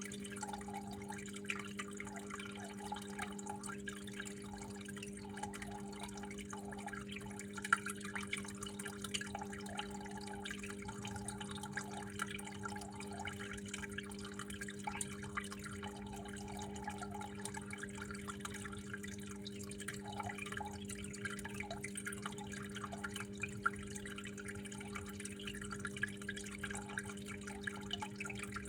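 Water trickling and dripping steadily, with scattered small ticks of drops and a steady low hum underneath.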